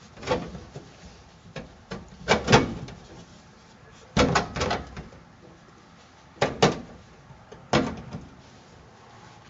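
Sheet-steel floor panel clunking and knocking against the truck's floor as it is worked into place, about five separate bangs and rattles with pauses between, the loudest a couple of seconds in.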